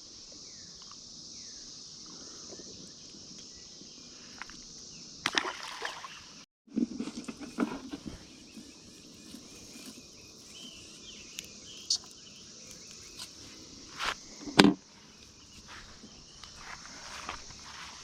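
Steady high-pitched drone of a Brood X periodical cicada chorus, broken by a few sudden louder noises, the loudest about fourteen seconds in. The sound cuts out completely for a moment about six and a half seconds in.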